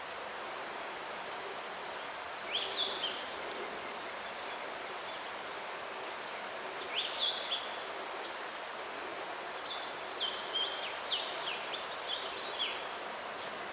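A songbird sings three short phrases of quick down-slurred notes: one about two and a half seconds in, one around seven seconds, and a longer run from about ten to twelve and a half seconds. Under them runs a steady outdoor hiss.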